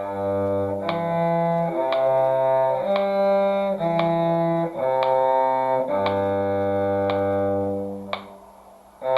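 Slow two-part string duet: a low cello line sustains under a higher line, the notes changing about once a second, with a metronome click on each beat. The sound dies away about eight seconds in and the playing resumes just at the end.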